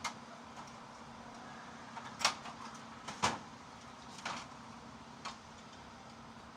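Five irregular knocks and clanks, the second and third the loudest, from sheet-metal fluorescent light fixture housings being handled and set down while they are sorted, over a steady low hum.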